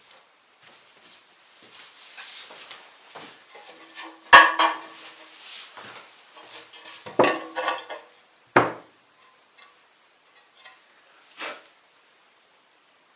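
Hard objects being handled, knocking and clattering. The loudest knock comes about four seconds in and rings briefly; a second burst of clatter follows around seven seconds, then a single knock and a fainter one near the end.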